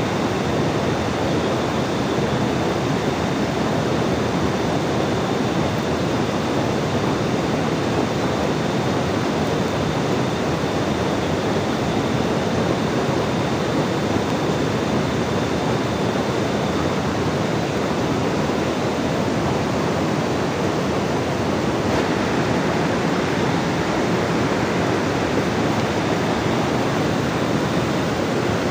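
Steady, loud water noise, the sound of a heavy downpour or a fast river, with a faint high steady tone that fades in and out.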